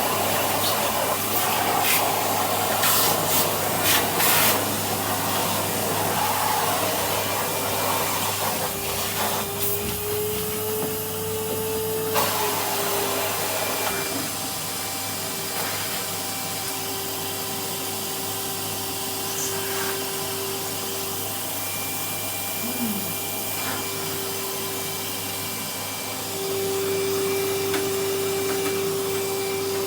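Vacuum cleaner running with a brush attachment, a steady noisy hum with a motor whine that wavers slightly in pitch. A few sharp clicks sound in the first few seconds, and the hum grows louder near the end.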